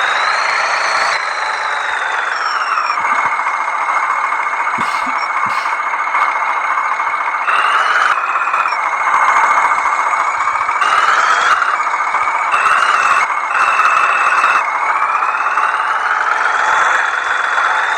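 Tractor engine running hard, with a high whine that rises and falls in pitch and jumps abruptly several times.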